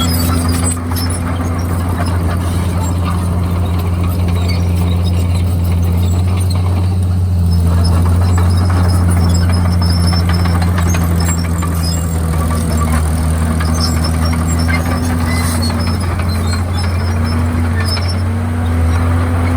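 Komatsu D51PX crawler bulldozer's diesel engine running steadily. Its note wavers up and down in the second half. Scattered short high-pitched clicks sound over it.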